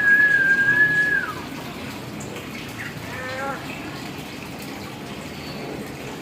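A hill myna whistles one long, loud, level note that slides up at its start and drops away at its end, then gives a short call with several tones stepping down about three seconds in, over a steady rushing background.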